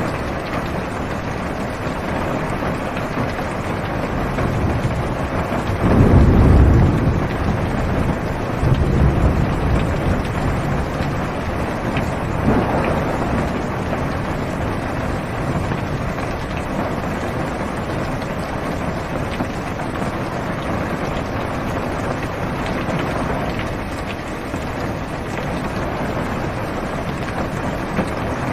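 Steady heavy rain drumming on a car's roof and windows, heard from inside the car. A deep roll of thunder starts about six seconds in and rumbles on for a few seconds.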